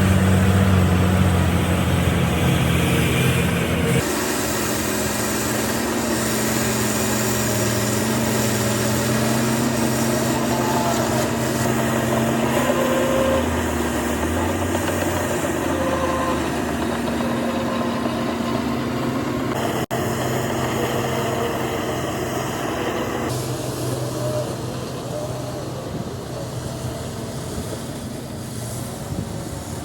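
Diesel engines of heavy earthmoving machinery (excavator, bulldozer and dump trucks) running steadily, the engine note shifting abruptly about 4 seconds in and again around 20 seconds in.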